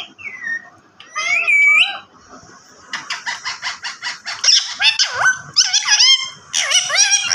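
Parrot vocalizing: a short gliding call, then a fast run of chattering, squawky calls from about three seconds in.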